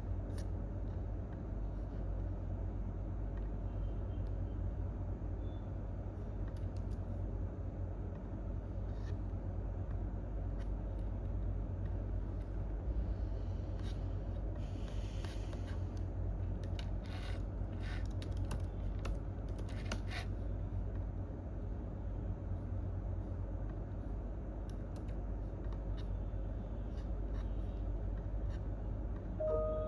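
Office room tone: a steady low hum, with sparse keyboard and mouse clicks and a short run of typing about halfway through. A short beep sounds near the end.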